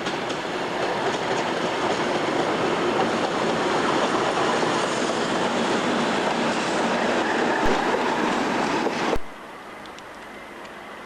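A diesel-hauled freight train passing on the mainline, its wagons running over the rails in a loud, continuous rush of wheel and rail noise. The noise stops abruptly about nine seconds in, leaving a quieter steady background noise.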